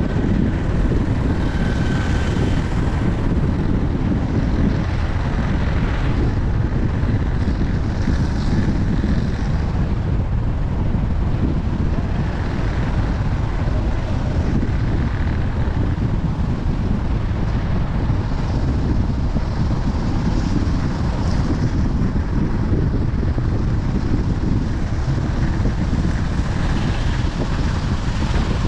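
Steady low rumble of a vehicle on the move, road and wind noise running evenly with no change in pace.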